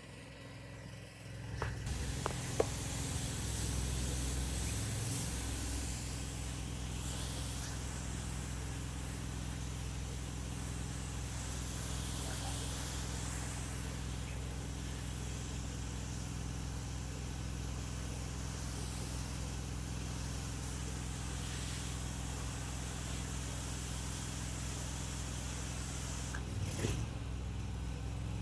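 Pressure washer running steadily, its engine humming under the hiss of the water spray on house siding.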